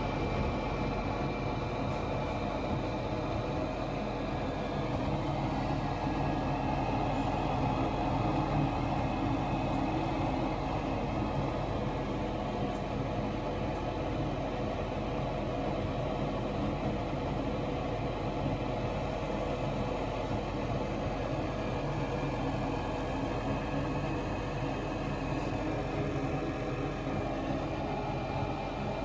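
A steady machine hum with a faint high whine, even throughout.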